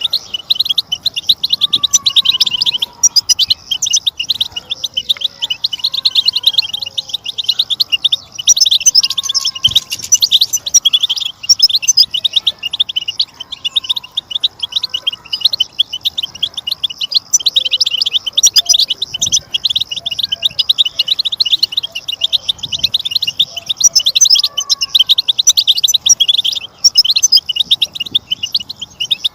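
A flock of European goldfinches singing together: a dense, continuous twittering of rapid high chirps, with fainter, lower sliding notes underneath.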